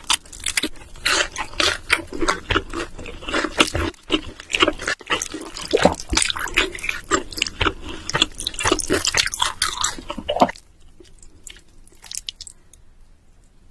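Close-miked eating sounds: dense, wet, clicking chewing noises for about ten seconds, then suddenly dropping to a few faint clicks.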